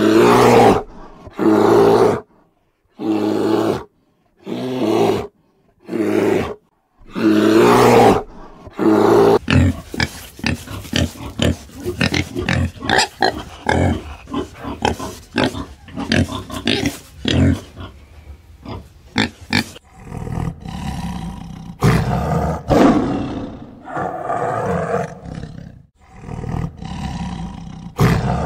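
A string of animal calls: first about seven deep growling roars of a brown bear, each about a second long with short gaps, then a long run of rapid short pig grunts, then a tiger's growls over a low rumble near the end.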